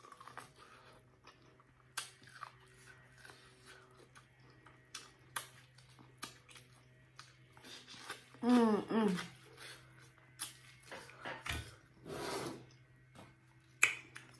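A person biting and chewing boiled corn on the cob, with scattered crunchy clicks and wet mouth sounds. Just after eight seconds in comes a brief voiced hum.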